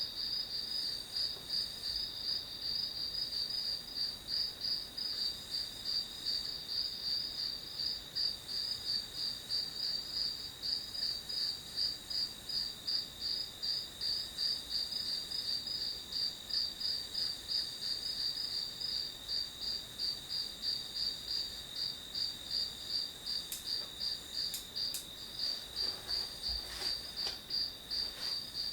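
Crickets chirping: a steady, high-pitched chorus of evenly repeated chirps. A few faint clicks come near the end.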